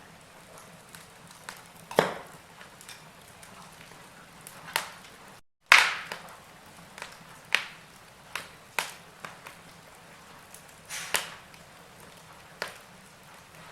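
Wood fire crackling: logs popping with irregular sharp snaps over a faint steady background, the loudest pops about two seconds in and just before halfway. The sound cuts out for a split second right before that second big pop.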